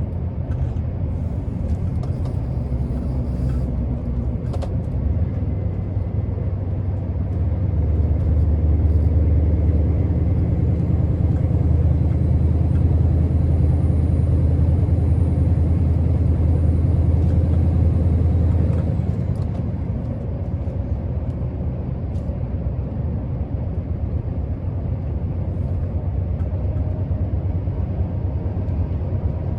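Scania R650's 16-litre V8 diesel running under way, a steady low drone. It grows louder from about eight seconds in and eases back shortly before twenty seconds. A faint high whistle rides over it while it is loudest.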